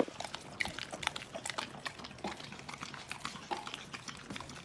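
A dog licking peanut butter off a spoon and smacking its mouth, a quick irregular run of small wet clicks and smacks.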